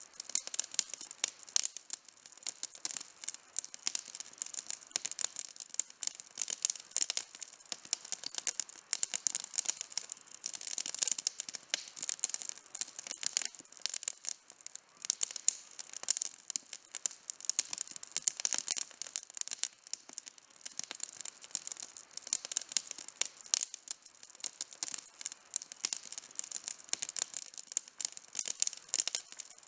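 Wood campfire burning with dense, continuous crackling: many quick sharp pops and snaps, small ones coming several times a second with louder snaps scattered throughout.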